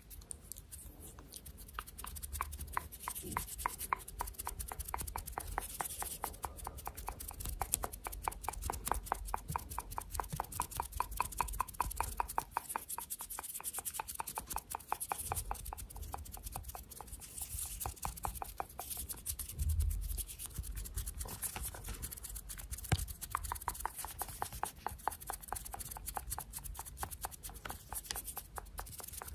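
ASMR hand sounds close to the microphone: rapid, evenly spaced small clicks of hands moving and rubbing, with a few soft low thumps.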